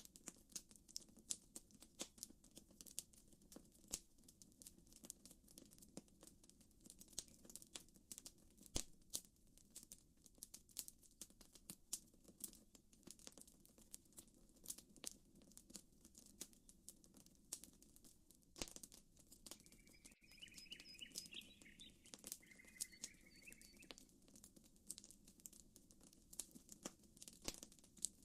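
Campfire crackling, with frequent irregular sharp pops over a faint low steady rush. About twenty seconds in, a bird chirps a short run of notes for a few seconds.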